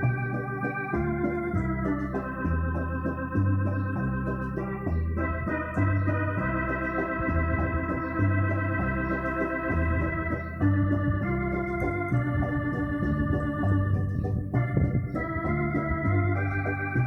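Yamaha Electone BK-5C electronic organ playing held chords with vibrato over a bass line that steps from note to note.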